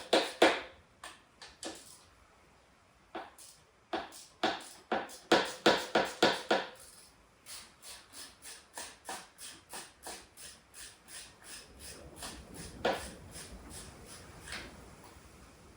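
Ratchet wrench clicking in quick runs as engine mounting bolts are undone, then slower, fainter clicking, with a single knock near the end.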